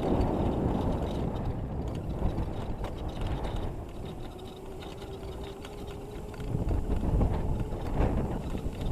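Razor MX650 electric dirt bike being ridden: a heavy, rough rumble of the ride over the ground, with the electric motor's steady whine, rising slightly, coming through in the middle, then louder rumbling again near the end.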